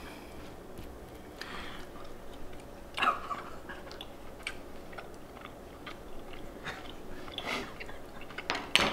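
A person chewing a tough, overcooked well-done steak, with wet mouth sounds and small clicks through the chewing; the steak is too chewy to swallow. A short louder sound comes right at the end.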